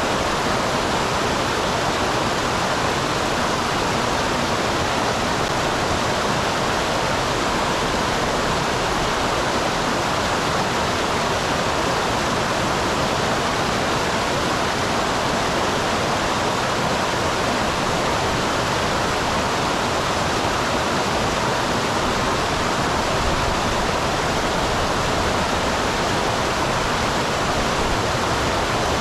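Small waterfall on a mountain stream: water pouring and splashing in a steady, even rush.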